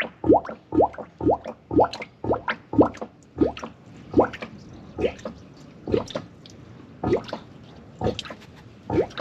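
Dark, old engine oil dripping from the oil pan's drain hole into a catch pan. Each drop lands with a short plop that rises in pitch, about two a second at first, slowing to about one a second as the pan drains.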